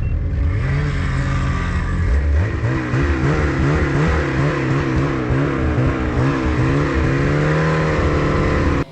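Ski-Doo 850 turbo two-stroke snowmobile engine running loudly under throttle while towing a dead sled, its engine speed repeatedly rising and falling a little.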